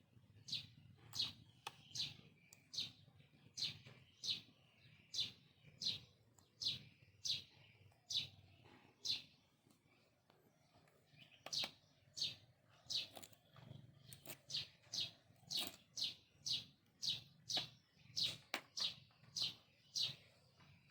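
Repeated short, high-pitched chirps, roughly one or two a second, pausing for about two seconds near the middle and coming faster toward the end.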